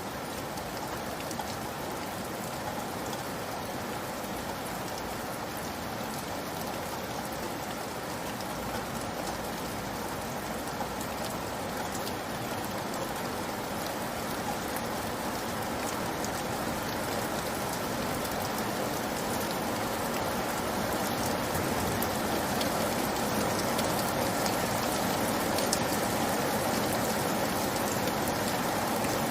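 Steady rainfall, a continuous hiss of many drops pattering on a surface, growing slightly louder toward the end.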